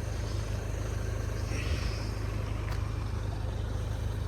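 Steady low engine hum of an idling vehicle, with no change in level.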